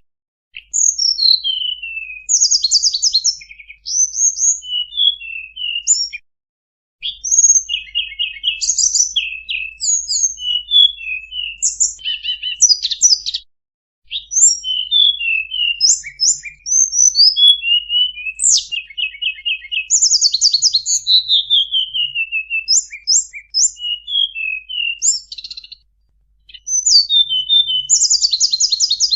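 Bird-lure (pikat) call of the tledekan bambu: rapid high chirps, fast trills and falling whistled notes in busy phrases, broken by brief pauses a few times.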